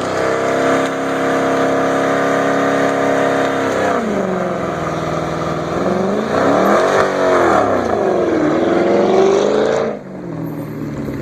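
An engine runs at a steady speed, then revs up and down several times. About ten seconds in it drops back to a lower, quieter, falling note.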